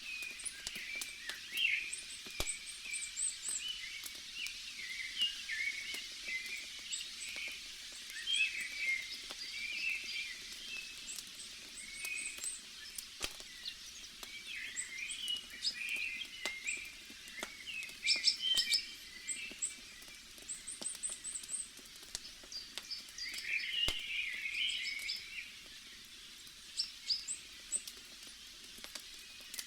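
Many small birds chirping and twittering throughout, over a wood fire crackling with scattered sharp pops.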